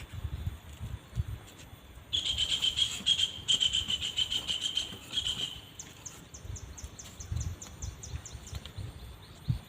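A high, rapid pulsing trill from an insect, loud for about three and a half seconds and then stopping. It is followed by a quick run of very short, falling high chirps, about five a second.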